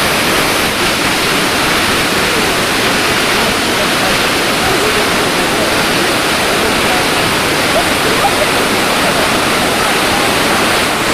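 Large waterfall rushing loudly and steadily, a dense even wash of falling water.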